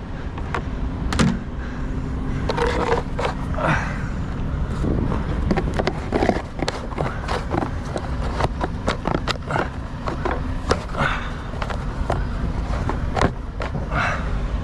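Irregular clicks, knocks and scrapes, many a second, over the steady low rumble of an idling engine.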